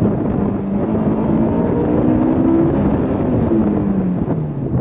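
Honda S2000's 2.2-litre four-cylinder engine under hard acceleration, its pitch climbing, then falling steadily from about three and a half seconds in as the car comes off the throttle and slows.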